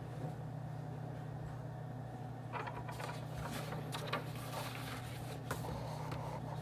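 Office white-noise ambience: a steady low hum, with scattered light clicks and taps starting about two and a half seconds in.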